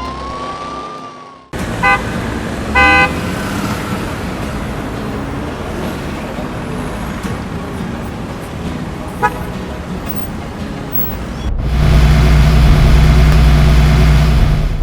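Traffic noise with two short car-horn toots about two and three seconds in, then an engine starts running loudly and steadily near the end.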